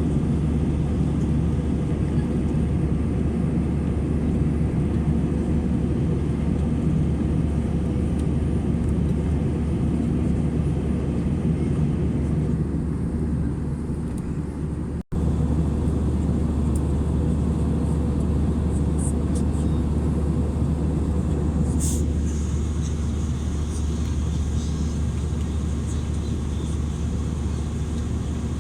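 Cabin noise inside an Airbus A319-111 in flight: the steady, deep rumble of its CFM56 engines and airflow, heard from a window seat. The sound cuts out for an instant about halfway through, and a few faint ticks follow.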